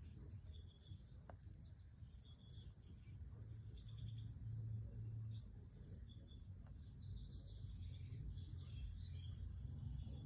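European goldfinches of the Major race giving short, high chirps and twittering calls in quick, irregular succession, faintly, over a steady low hum.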